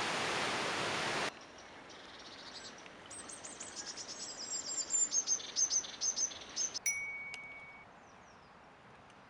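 A small songbird singing a rapid, high-pitched trill of quick falling notes that builds up and stops about seven seconds in, after a loud steady hiss that cuts off abruptly a second into the clip. A click and a short steady tone follow the song.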